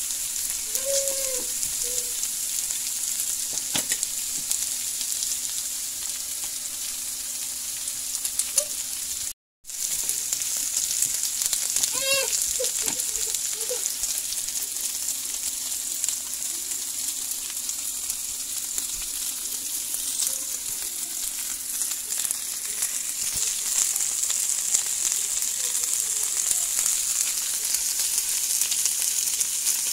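Food sizzling in frying pans: vegetables stirred with a wooden spatula at first, then, after a sound that breaks off briefly about nine seconds in, lamb chops with butter and cubed potatoes frying in steady sizzle.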